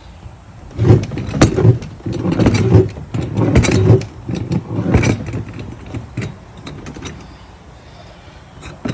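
Steel kayak lock being worked on the trailer: clanks, knocks and metallic rattling, loudest from about one second in to about five seconds in, then quieter.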